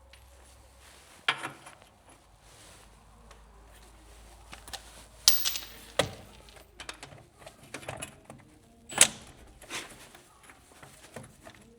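Scattered sharp clicks and knocks of hand tools and parts being handled during work on a car's suspension, irregular and spaced apart, the loudest about nine seconds in.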